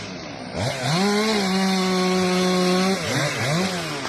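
Chainsaw engine revved up and held at a steady high pitch for about two seconds, then let off, followed by two short throttle blips.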